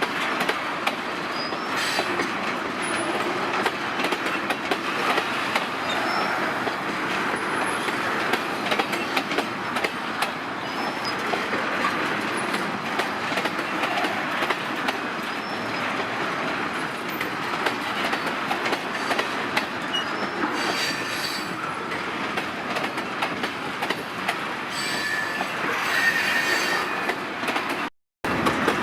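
A long freight train of petroleum tank wagons rolling along the track, its wheels clattering over the rails and squealing now and then. The sound cuts out abruptly for a moment near the end.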